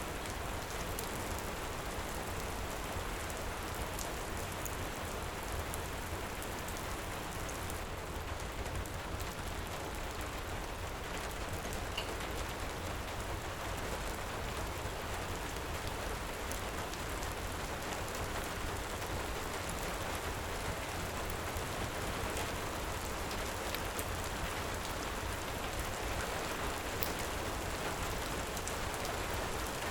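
Heavy rain falling steadily, with a few faint sharp ticks scattered through it.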